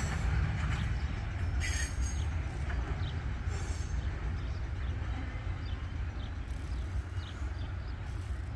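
Freight train rolling past on the main line: a steady low rumble of wheels on rail with scattered light clicks, easing off slightly.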